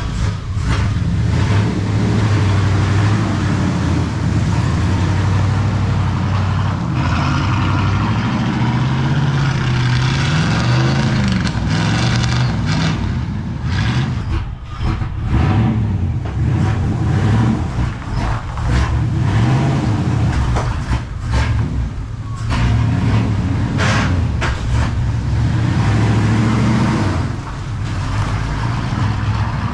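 Chevy small-block V8 in a pickup truck, running and being revved, its pitch rising and falling repeatedly.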